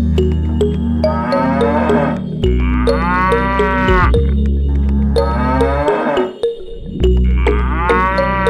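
Cow mooing again and again, about four calls that rise and fall in pitch, over a music track with a steady bass line.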